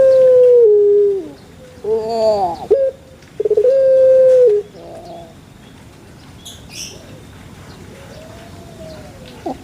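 A dove singing its cooing song: a long, clear held coo that drops in pitch at the end, a short wavering phrase about two seconds in, and another held coo about three and a half seconds in. Fainter bird chirps follow in the second half.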